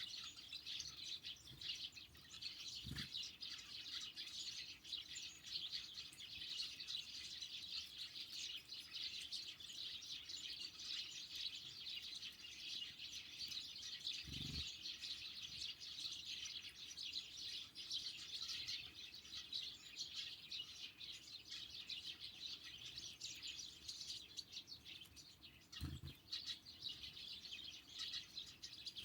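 A flock of small songbirds, great tits and sparrows, chirping and twittering continuously at a winter feeder, many calls overlapping. Three soft low thumps break in: about 3 seconds in, near the middle, and near the end.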